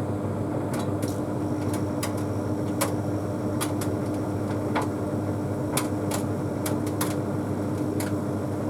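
Bosch Series 6 heat pump tumble dryer running on its Easy Care cycle: a steady machine hum of drum motor and compressor, with irregular light clicks about once a second as the load tumbles in the drum.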